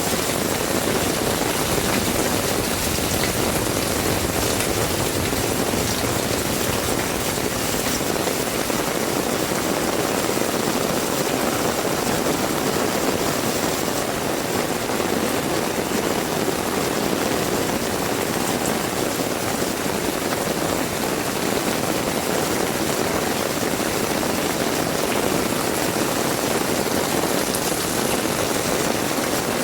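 Heavy rain falling and hitting the ground in a steady, unbroken hiss, with no single sound standing out.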